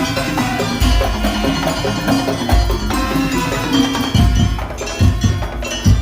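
Madurese daul (tong-tong) ensemble playing: wooden tong-tong percussion and metallophone melody over heavy bass drum strokes every second or two.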